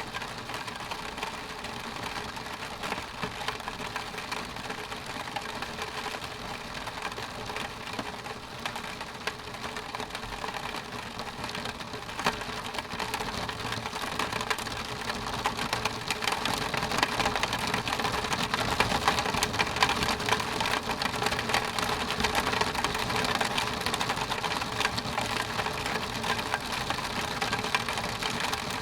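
Rain striking a window pane: a dense, steady hiss of many small drop impacts on the glass. It grows heavier about halfway through and stays heavier.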